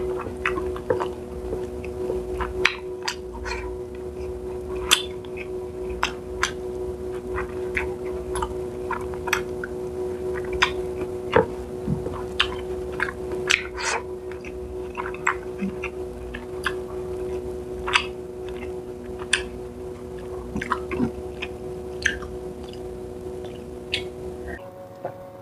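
Close-up eating sounds from chewing tilapia in coconut milk: irregular wet mouth clicks and smacks, several every second, over a steady low hum.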